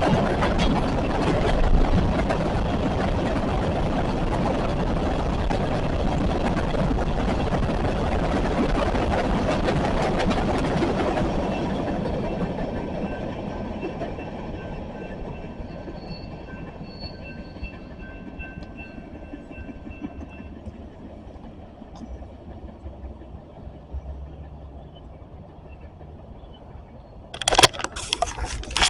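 CSX freight train cars rolling past, a steady loud rumble of wheels on rail that fades off after about twelve seconds as the train moves away. A short loud noise comes near the end.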